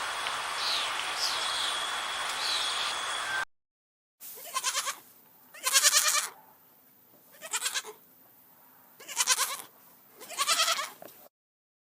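A goat bleating five times, each bleat a short quavering call with gaps between. Before the first bleat, a steady noisy outdoor background with faint chirps cuts off abruptly.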